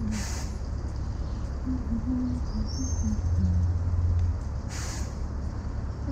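Street traffic and wind-and-road rumble heard from a bicycle riding through city streets, with two short hisses about four and a half seconds apart.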